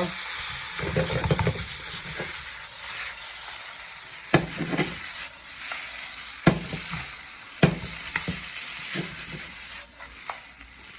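Chicken chow mein sizzling in a hot pan as it is stirred and tossed, with a utensil knocking sharply against the pan several times.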